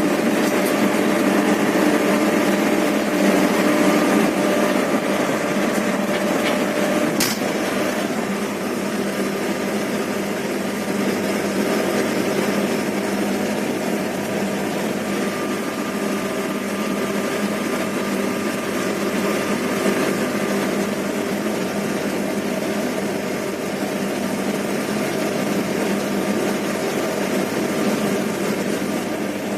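Steady running noise of a train heard from inside the locomotive cab, the engine and wheels droning evenly with a faint steady tone over it. A single brief click about seven seconds in.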